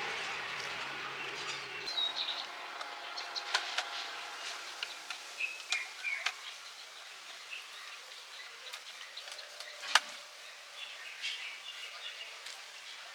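Birds chirping over faint background noise, with scattered light clicks and taps; one sharp tap about ten seconds in is the loudest sound. A low vehicle-like rumble fades and stops about two seconds in.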